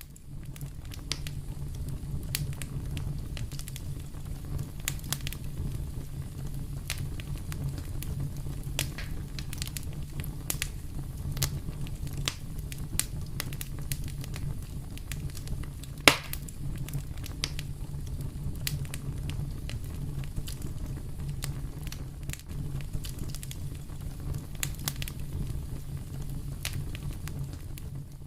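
Fire in a fireplace crackling: scattered sharp pops over a steady low rumble of the flames, with one much louder pop about halfway through.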